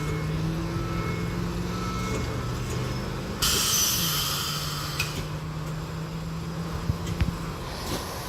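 Baltimore Metro Subway railcars moving slowly with a steady low hum that steps down in pitch about four seconds in. A sudden burst of air hiss comes about three and a half seconds in and lasts about a second and a half, and a few sharp clicks follow near the end.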